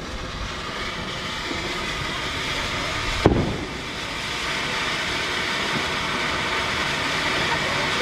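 A ground firework spraying with a steady hiss that grows a little louder, with one sharp bang about three seconds in.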